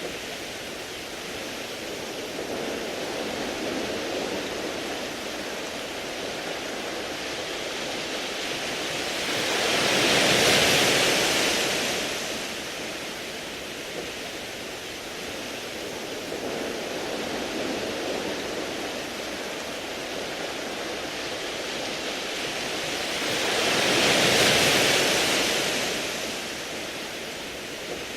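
Sea waves washing up and draining back over a beach of round, smooth pebbles, a steady rushing hiss that swells twice, about ten seconds in and again near the end.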